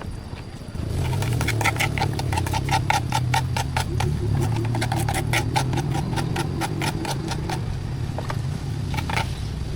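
A machine running with a steady low hum and rapid, regular ticking of about six or seven ticks a second; the ticking stops near the end, leaving a few scattered clicks.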